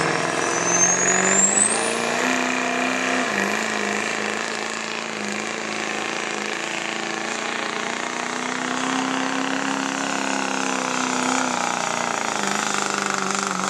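Turbocharged diesel pickup truck pulling a sled under full load. A high turbo whistle climbs in pitch over the first two seconds and then holds, while the engine runs hard with its pitch rising and falling.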